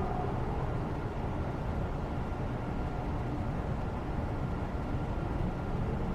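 Steady low rumbling ambient background noise, even throughout, with a few faint tones in it.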